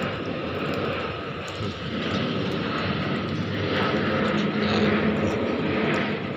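A steady engine drone, like an aircraft or other vehicle passing, swelling a little about four to five seconds in.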